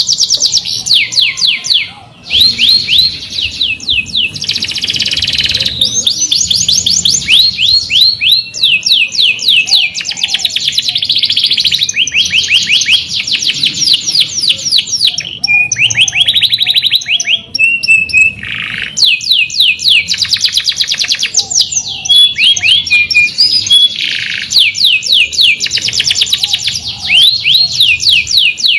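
Domestic canary singing a long, loud song of rapid trills, runs of fast repeated sweeping notes with short breaks between phrases.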